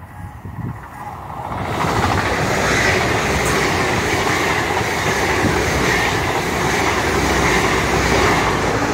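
Train passing close by on the line: wheel-on-rail noise that swells over the first two seconds, holds loud and steady, then eases off at the very end.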